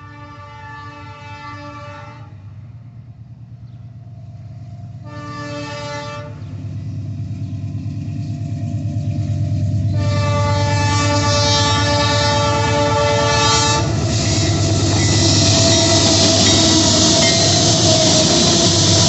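Diesel locomotive's multi-chime air horn sounding three blasts, two shorter then a long one, over a low engine rumble that grows louder as the train approaches. After the last blast the train passes close by with a loud steady rush of wheel and rail noise.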